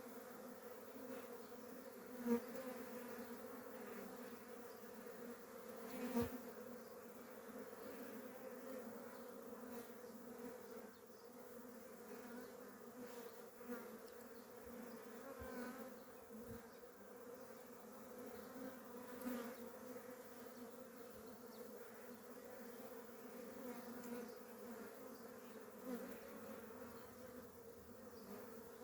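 A swarm of Korean native honeybees buzzing in a steady, fairly faint hum during natural swarming, with a few brief knocks, the loudest about two and six seconds in.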